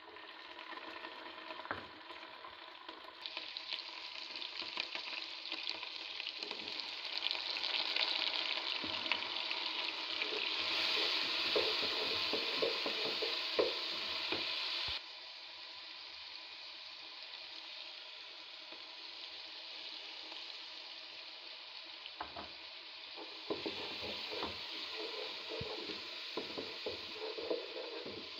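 Chopped onion and green chilli masala sizzling in hot oil in a pot, stirred with a wooden spoon that scrapes and knocks against the pot. The sizzle is loudest in the first half and drops suddenly about halfway.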